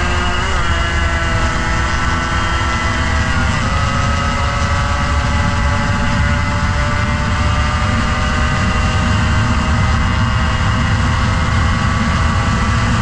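Motorcycle engine running steadily at speed, with heavy wind rumble on the microphone; the engine note shifts slightly about half a second in and drops to a lower pitch about three and a half seconds in.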